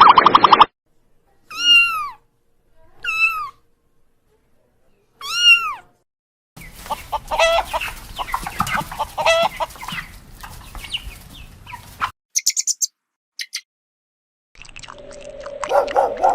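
A run of different animal calls. First come three separate pitched cries, each rising and falling. Then a longer stretch of rapid, crowded calls over a noisy background, a few brief high chirps, and near the end another call with a steady tone.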